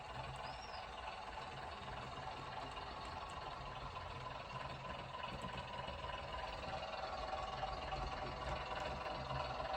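Sound-fitted model Class 101 diesel multiple unit playing its recorded diesel engine sound through the model's small speaker, a steady idle that grows a little louder near the end.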